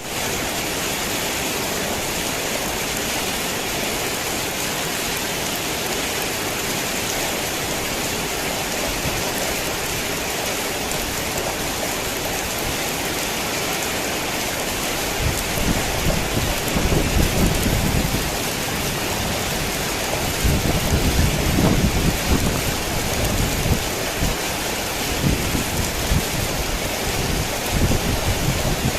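Heavy rain falling steadily, with low rumbles of thunder rolling in about halfway through, the loudest about two-thirds of the way in.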